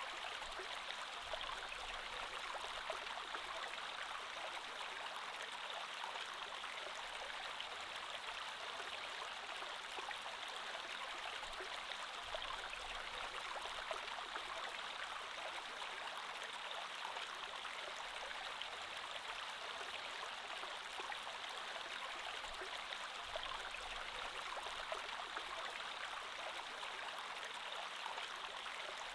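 Creek water flowing and babbling steadily over stones, an even rushing with fine splashy detail.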